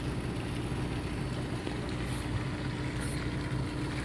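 Fishing boat's engine running steadily, a low, even hum with a steady tone. Two brief high-pitched hisses about two and three seconds in.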